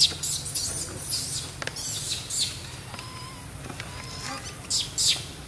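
Birds chirping in quick, high-pitched clusters, busiest near the start and again near the end, with a steady low hum underneath.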